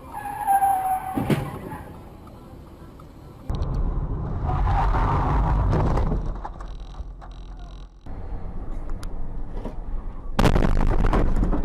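Dashcam audio of a crash: a short high squeal, then a sharp bang about a second in. Loud low rumbling road or wind noise follows, breaking off abruptly several times.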